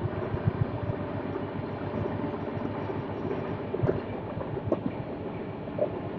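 Ganga–Sutlej Express running on the rails: a steady rumble with many irregular knocks and rattles.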